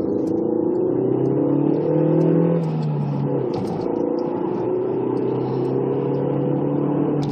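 Engine of the camera vehicle pulling through a gear, its pitch rising, then a gear change a little before halfway, after which it runs at a steady pitch while cruising.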